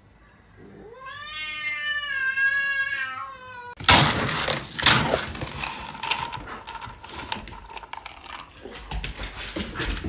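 A domestic cat meowing in one long, drawn-out call. About four seconds in it gives way to a sudden stretch of loud rustling and clattering noise with many small knocks.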